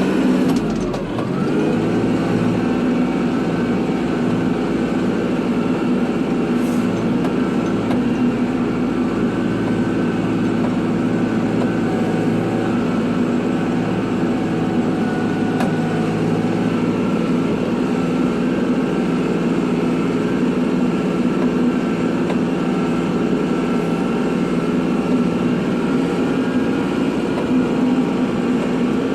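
Kubota tractor's diesel engine running steadily under load, with a brief dip and shift in engine pitch about a second in.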